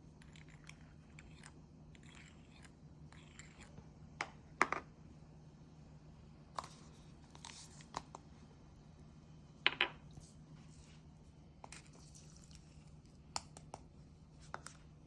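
Scattered short clicks and crunches of small objects being handled, a dozen or so at uneven intervals and loudest about 4.5 and 10 seconds in, over a steady low hum.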